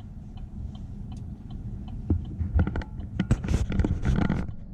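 Low, steady rumble inside a motorhome's cab, with scattered small clicks and a brief rustling, crinkling noise about three seconds in.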